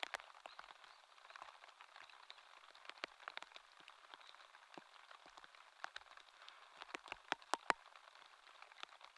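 Light rain falling, a soft steady hiss with scattered drops tapping on a surface, a quick run of louder drops about seven seconds in.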